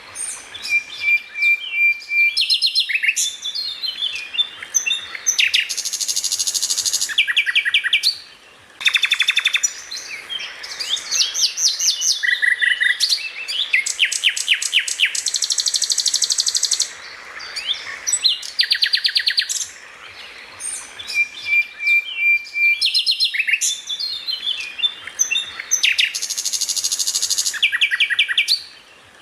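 Songbird song: rapid chirps, fast trills and buzzy high notes in bursts with short pauses. The same sequence of phrases repeats about every 20 seconds, as in a looped masteran training track for cage birds.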